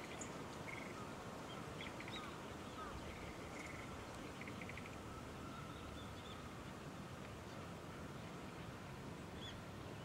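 Distant birds giving faint short chirps and quick trills, over steady low background noise.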